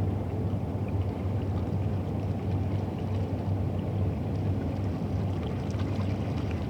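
River ambience dominated by a steady low engine rumble, typical of a boat running on the Thames, with faint scattered small ticks above it.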